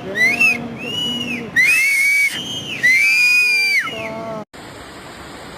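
A series of drawn-out whistles, each rising and then falling in pitch, some of them overlapping. About four and a half seconds in they stop abruptly, giving way to a steady rush of floodwater.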